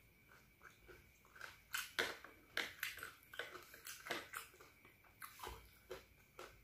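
A person chewing a mouthful of fried instant noodles close to the microphone, with soft, irregular wet mouth smacks and clicks, two or three a second.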